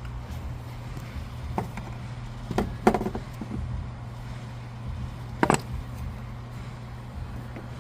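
A few sharp clicks and knocks from hands and tools working on the truck's light wiring, the loudest about three seconds in and another about five and a half seconds in, over a steady low hum.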